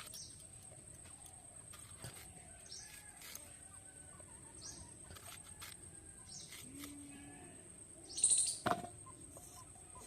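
Birds chirping in short, scattered calls over a faint steady background. A louder, higher call comes about eight seconds in, followed at once by a sharp click.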